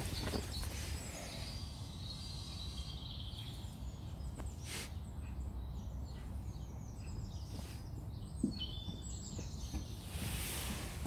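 Wild birds chirping and twittering in the background, short high calls coming and going, over a steady low rumble, with a couple of brief rushes of noise.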